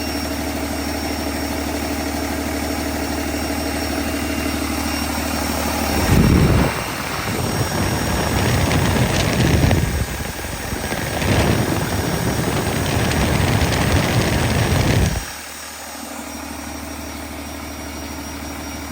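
Cummins ISB 6.7 inline-six diesel engine idling steadily, then revved up several times for about nine seconds before dropping suddenly back to idle near the end.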